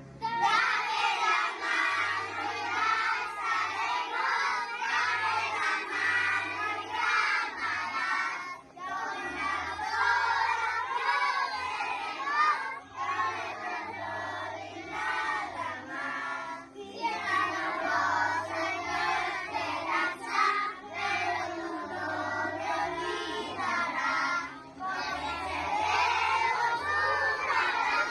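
A class of young children singing a song together in unison, over musical accompaniment with a low bass line.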